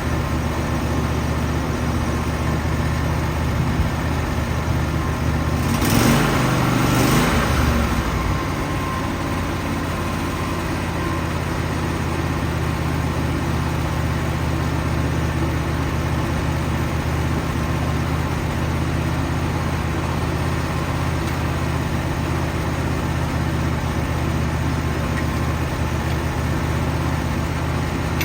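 Wood-Mizer portable sawmill's engine running steadily, with a brief louder surge about six seconds in.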